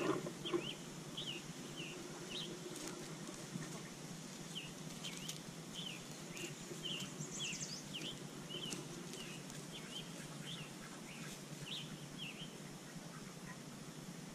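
Birds chirping: short, high, downward-sliding chirps repeating about every half second, with one higher whistle about halfway through, over a steady outdoor background. A few close knocks right at the start.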